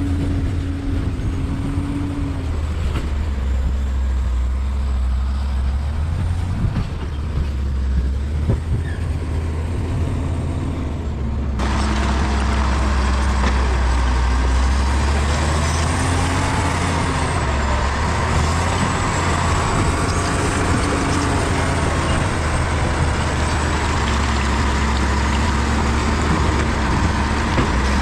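Bulldozer's diesel engine running with a deep, steady drone, its pitch rising and falling a little as it works. About eleven seconds in, the sound turns abruptly brighter and noisier.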